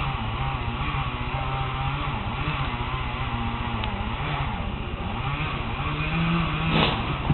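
An engine running, its pitch rising and falling as the revs change, with a short sharp noise near the end.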